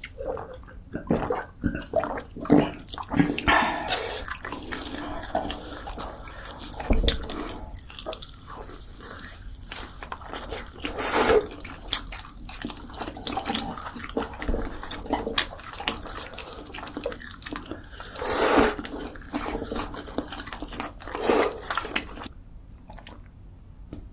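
Wet mouth sounds of eating: irregular chewing, smacking and slurping, with clicks and short bursts, stopping about two seconds before the end.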